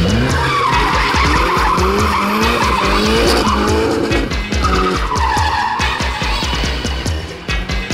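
A drift car sliding sideways with its tyres squealing twice and the engine revving up and down, over music with a steady beat.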